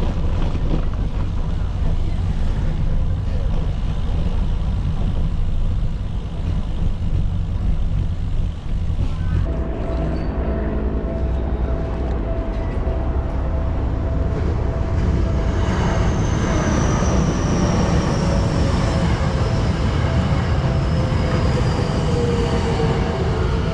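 Wind rumbling on the microphone and traffic noise during a bicycle ride. From about ten seconds in, a steady hum joins, and later a slowly falling whine from a passing vehicle.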